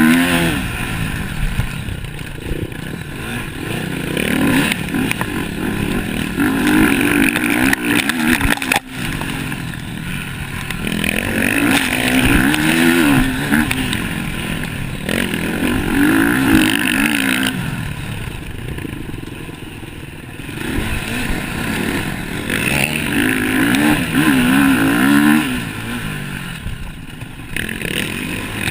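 MX1 motocross bikes racing, their engines revving up and backing off in repeated swells as the bikes pass, several times over.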